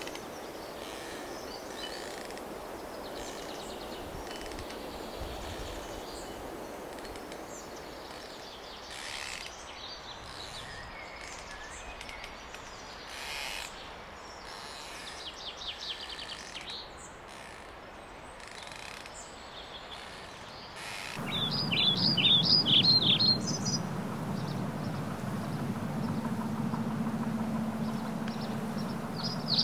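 Added ambient soundtrack of small birds chirping over a steady background hiss. About two-thirds of the way through, a low steady rumble with a droning hum comes in, together with a louder run of quick bird chirps, which return near the end.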